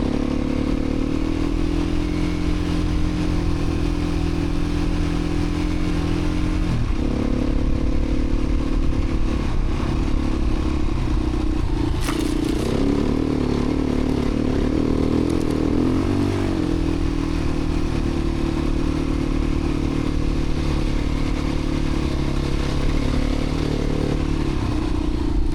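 Beta 350 RRS dirt bike's single-cylinder four-stroke engine running under way on a trail ride. The engine note holds fairly steady, dips briefly about a quarter of the way in, then rises and wavers for a few seconds around the middle as the throttle changes.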